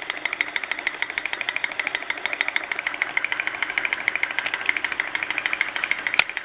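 Homemade lamina flow (thermoacoustic) engine running at a fast speed, making a rapid, even clicking, with one sharper click near the end.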